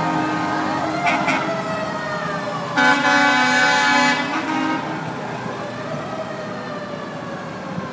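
Vehicle sirens wailing, slowly rising and falling. A loud horn blast comes in about three seconds in and holds for over a second.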